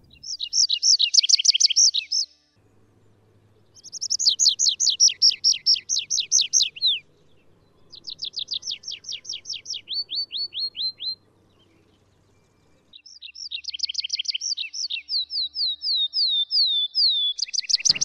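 A songbird singing in four long phrases separated by short pauses. Each phrase is a rapid run of high, downward-slurred notes, and the pace and pitch change from one phrase to the next.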